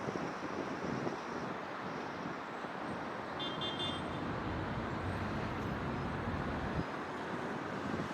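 City traffic noise: a steady wash of cars and other road vehicles, with a brief high-pitched tone about three and a half seconds in.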